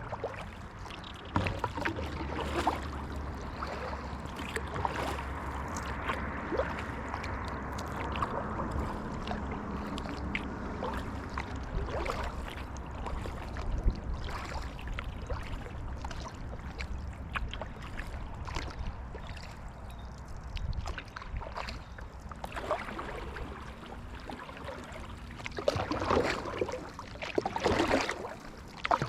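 Kayak paddle strokes dipping into creek water, with drips and water lapping against the hull, and two louder splashing strokes near the end. A steady low drone sits underneath and stops about three-quarters of the way through.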